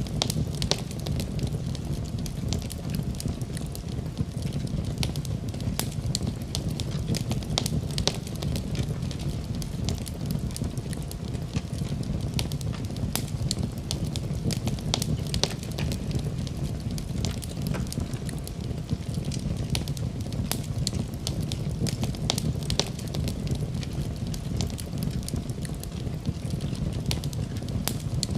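Wood fire crackling in a fireplace: a steady low rumble of the flames with frequent sharp pops and snaps at irregular moments.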